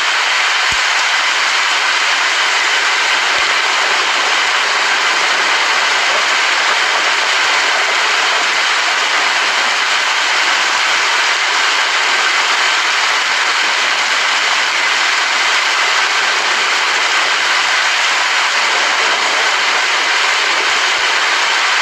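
Steady rain, an even unbroken hiss with little low rumble and no thunder.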